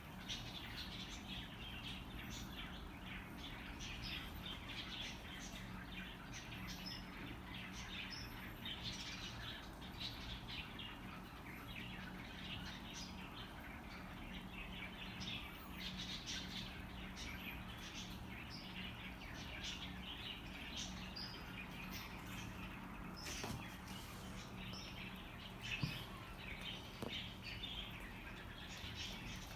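Budgerigars chirping and chattering continuously, many short calls overlapping, over a steady low hum.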